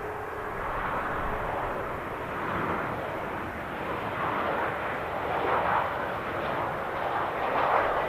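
An airliner's engines running loud and close, a rough rumbling noise that swells and fades several times.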